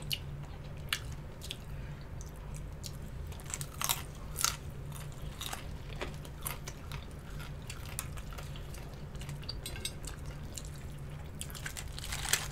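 Close-miked eating of crispy fried wings and corn: scattered crunchy bites and chewing, over a steady low hum.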